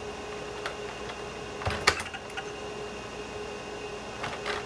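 A few scattered keystrokes on a computer keyboard, sharp separate clicks with the loudest about two seconds in and a small cluster near the end, over the steady hum of the running IBM PS/2 Model 25.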